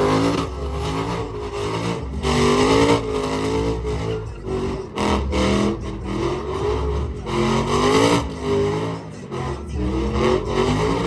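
Truck engine revving hard over and over, its pitch climbing and falling back in repeated surges.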